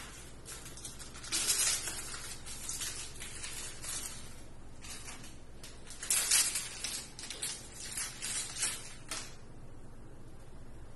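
Irregular bursts of rustling, hissing noise, loudest about a second in and again from about six to nine seconds in, over a low steady hum.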